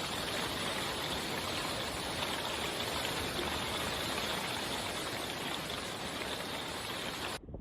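Heavy storm rain pouring down, a dense steady hiss of water that cuts off abruptly near the end.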